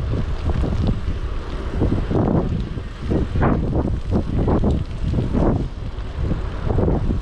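Wind buffeting a chest-mounted GoPro's microphone while cycling: a loud, uneven low rumble with irregular gusty swells.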